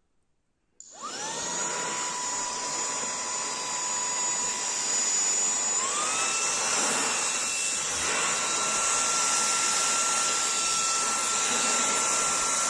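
Aspiring Windstorm 3 cordless car vacuum cleaner switched on about a second in, its motor whine rising as it spins up, then running steadily while vacuuming a rug through the carpet nozzle. About six seconds in, its pitch steps up and then holds.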